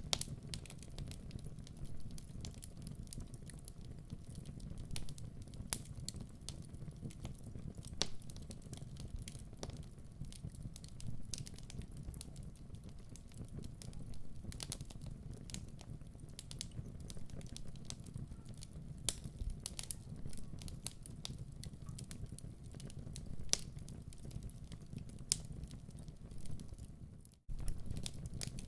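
Wood fire burning in a fireplace, crackling with irregular sharp pops over a steady low rumble. The sound drops out for a moment about a second before the end, then resumes.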